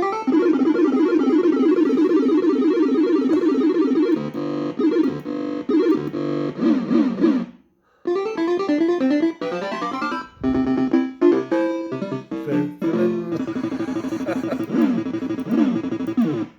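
Electronic bleeping tunes from a PCP Club Variety fruit machine's MPU4 sound system: fast runs of stepping notes, typical PCP sound. About halfway through the tune cuts out for a moment, then starts again with a different jingle of quick notes and short stabs.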